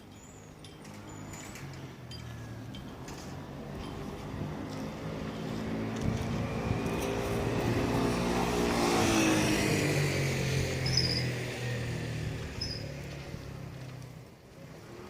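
A motor vehicle driving past: engine and tyre noise grow louder to a peak about nine seconds in, then fade away.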